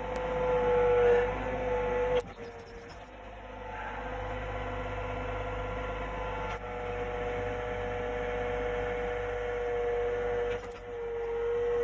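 Engine of a snow-clearing machine running steadily with a high, held whine.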